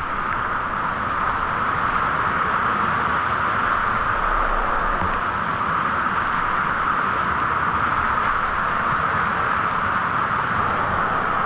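Waterfall pouring into its pool: a steady, even rushing of water.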